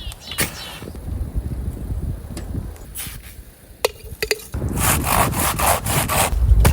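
Hand saw cutting through wood in quick back-and-forth strokes that start about four and a half seconds in, with a few sharp clicks before them.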